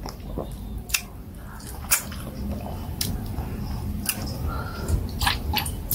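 A person chewing a mouthful of food close to the microphone, with wet smacks and sharp mouth clicks coming at irregular intervals, about one a second.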